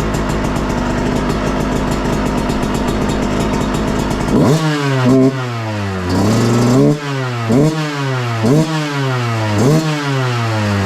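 Yamaha YZ125 single-cylinder two-stroke engine fitted with an FMF Shorty muffler, running steadily and then, from about four seconds in, revved in a series of quick blips, each rising sharply and dropping back, about one a second.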